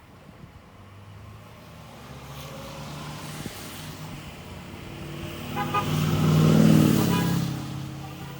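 A car passes close by: its sound builds over several seconds, is loudest about six to seven seconds in, then fades away.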